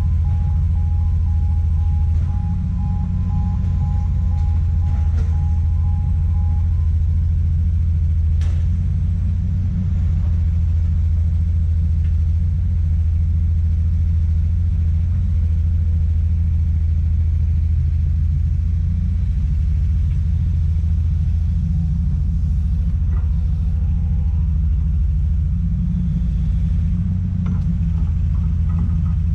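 Heavy diesel engine of a working excavator, running with a steady deep rumble. For the first several seconds a rapidly pulsing electronic alarm beeps over it, and a sharp knock comes about eight seconds in.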